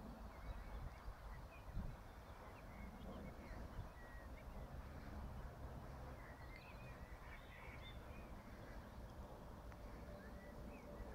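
Faint, scattered bird calls, short high chirps coming thickest in the middle stretch, over a steady low rumble of wind and outdoor noise.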